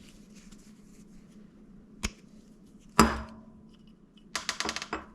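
Small metal parts of a dirt-bike kickstarter clicking and knocking as it is taken apart on the bench. There is a click about two seconds in, a sharper metallic knock with a short ring near three seconds, and a quick run of rattling clinks near the end.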